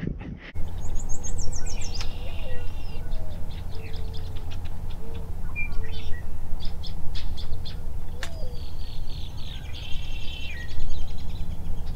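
Several birds singing, with repeated high trilled songs and short chirps, over a steady low hum.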